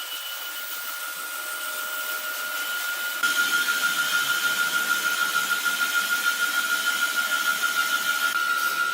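Sawmill saw running with a steady high whine; about three seconds in it grows louder and takes on a rapid pulsing.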